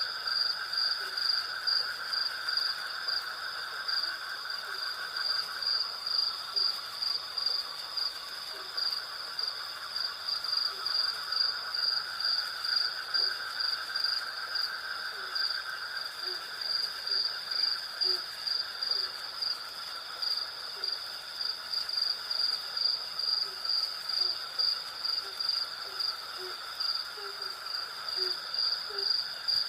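Night insect chorus of crickets and cicadas: a high, evenly pulsed cricket chirping runs over a steadier, lower insect buzz. Short low calls repeat underneath, more often near the end.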